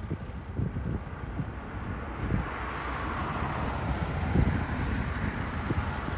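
A road vehicle approaching, its tyre and engine noise growing louder from about two seconds in, with wind buffeting the microphone.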